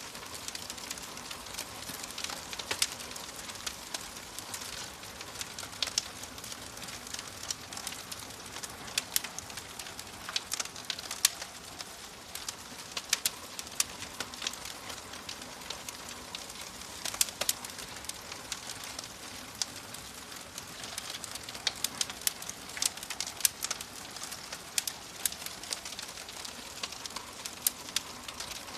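Wood fire crackling in a fireplace: irregular sharp pops and snaps, some much louder than others, over a steady soft hiss.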